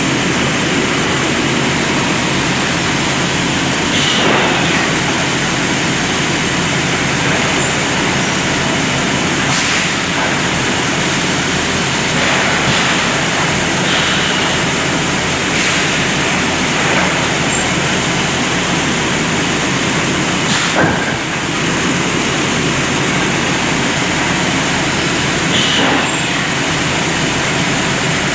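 Sandblaster nozzle blasting abrasive onto paving and curb stones: a loud, steady hiss of air and grit, with brief louder spurts every few seconds.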